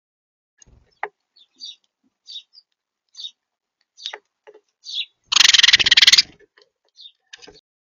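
Small birds giving short, high chirps at close range, with a loud, about one-second burst of scuffling noise a little past five seconds in.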